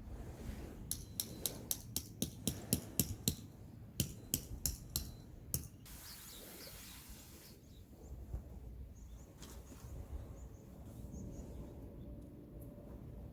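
Two quick runs of sharp clicks, about four a second, then a short hiss; birds chirp faintly.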